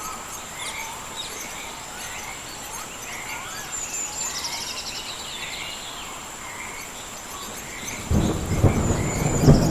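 Rainforest ambience: a steady high insect whine with repeated chirping frog and bird calls. About eight seconds in, a loud clap of thunder breaks in and rumbles on.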